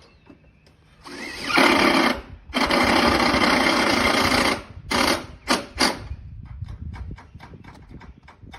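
Power driver running in bursts as screws are driven to fasten a seamless gutter: one run of about a second, a longer run of about two seconds, then three short pulls of the trigger, followed by faint, quick ticking.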